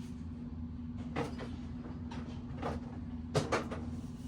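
A handful of short, scattered clicks and knocks from work on a bicycle's parts, the sharpest a little past three seconds in, over a steady low hum.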